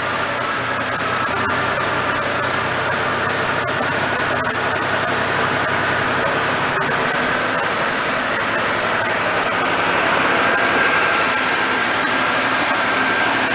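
Freshly rebuilt air-cooled 3.0-litre flat-six of a 1980 Porsche 911SC, fitted with individual throttle bodies, idling steadily just after starting up. A thin whine runs through the engine sound and rises slightly in pitch.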